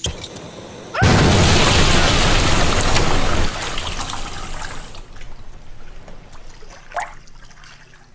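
Water suddenly bursting out of the sink's plumbing about a second in, gushing loudly for a couple of seconds, then spraying and running on more softly: the do-it-yourself faucet repair has gone wrong.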